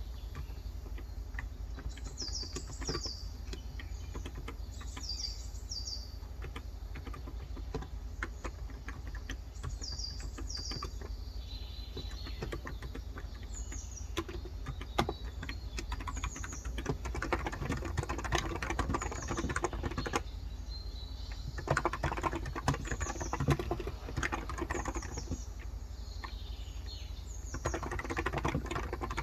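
Typing on a Cox Endeavor electro-capacitive (non-contact) keyboard with light 35 g switches: scattered key presses at first, then fast runs of keystrokes in the second half. Small birds chirp with short, high, paired descending calls repeating every few seconds, mostly in the first half.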